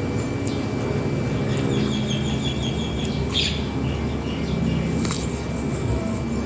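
Small birds chirping in a series of short, evenly spaced high notes, with a few more calls later, over a steady low hum.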